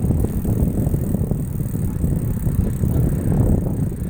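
Steady low rumble of a mountain bike being ridden, picked up by a phone clamped to the handlebars: tyre and frame noise, with some wind on the microphone.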